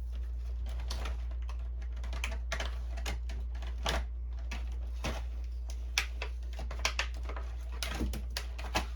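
Irregular small clicks and taps of plastic ink-refill bottle and syringe being handled, a few sharper ones about four, six and eight seconds in, over a steady low hum.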